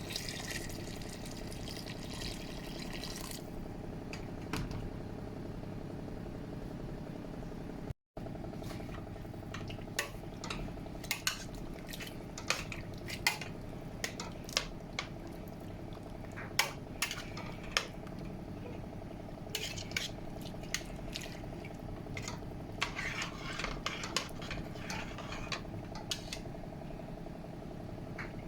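Water pouring into a cooking pot for the first few seconds, then a utensil clinking and knocking against the pot many times as the mung bean and chicken mixture is stirred, over a steady background hum.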